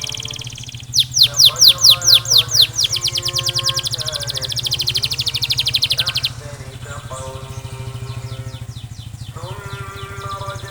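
Domestic canary singing: a loud rolling trill of repeated downward-sweeping notes, slow at first and then quickening, that breaks off about six seconds in, followed by softer trills. A steady low hum and faint held tones sound beneath it.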